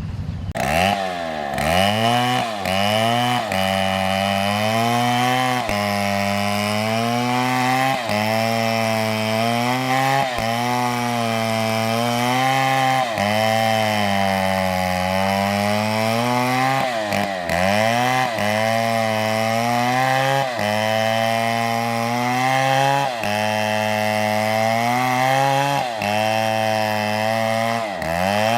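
STIHL chainsaw cutting through an oak log at high revs. The engine pitch sags under load and picks up again every couple of seconds as the chain bites and eases.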